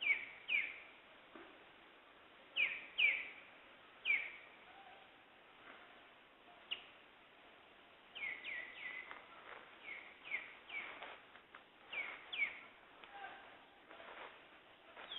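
Wild birds calling: short, clear notes that slide sharply downward in pitch. They come singly and in quick pairs, spaced out at first and then in a faster run of calls about eight seconds in.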